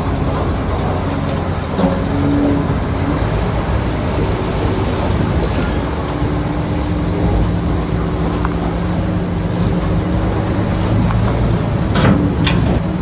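Heavy diesel earthmoving machinery running steadily under load, with a dense metallic clatter and a few sharp knocks near the end.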